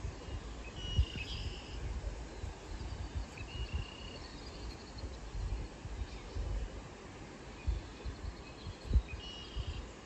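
Small birds chirping outdoors: a few short high calls and a fast ticking trill. Occasional low thumps and rumble sound against the microphone.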